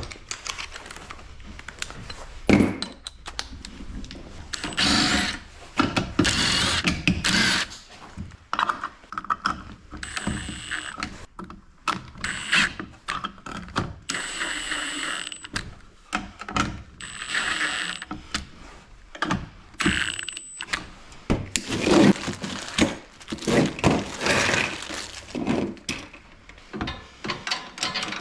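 Hand tools at work on a garage door opener powerhead: irregular ratcheting, clicking and clanking of metal parts. There are a few short stretches with a thin, high, steady whine.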